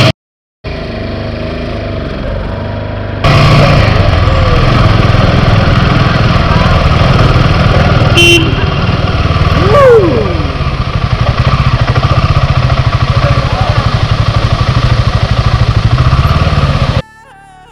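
Motorcycle engine running on the move with steady road and wind noise, louder from about three seconds in, and a pulsing engine throb in the later part. A brief higher tone sounds about eight seconds in.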